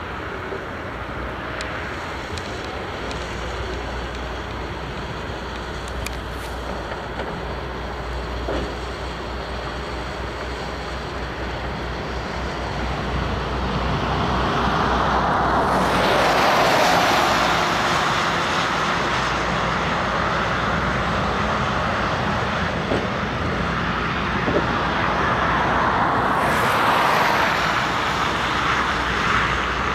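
Heavy diesel construction machinery running at work. The noise grows louder and harsher twice, once about halfway through and again near the end.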